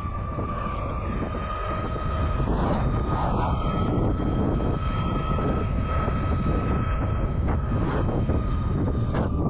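Monday Motorbikes Gateway 500 W electric bike under way: a steady high whine from the electric motor over heavy wind and road rush, which grows louder about two seconds in.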